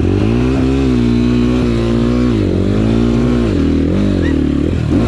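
Enduro motorcycle's single-cylinder engine held under throttle, its pitch sagging and climbing back several times as the bogged bike is hauled free of an obstacle by helpers.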